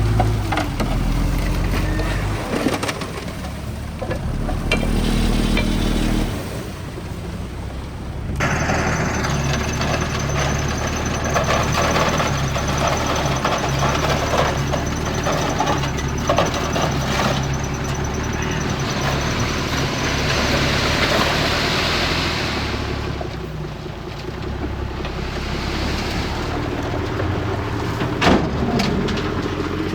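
Heavy diesel earthmoving machinery running at work, a low steady engine rumble with clatter over it. The sound changes abruptly about eight seconds in, and a thin high whine then runs for about ten seconds.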